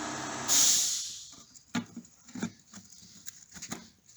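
A steady hum and a short hiss fade out in the first second. Then come scattered light clicks and knocks of a tractor's oil filter bowl assembly being handled and fitted up under the engine.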